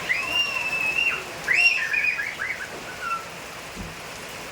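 Steady daytime rain with clear whistled notes over it for the first three seconds: one long held note, then a run of short notes that rise and fall.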